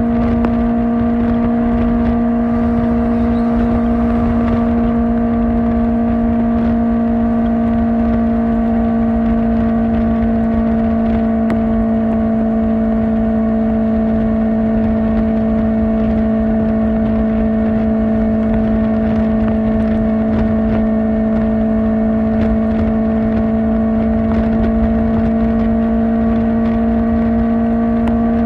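Kawasaki Ninja ZX-4R's 399 cc inline-four with an Akrapovič exhaust, running at a steady high engine speed while cruising. The engine note holds one pitch throughout.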